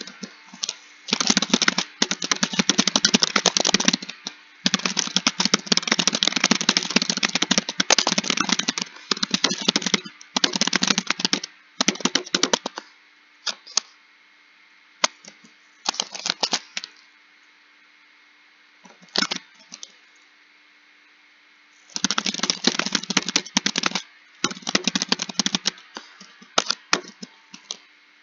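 Computer keyboard being typed on in fast runs of keystrokes, each run lasting one to four seconds, broken by short pauses and a few single key presses. In the middle there is a quieter stretch of several seconds with only a stray keystroke before the fast typing resumes.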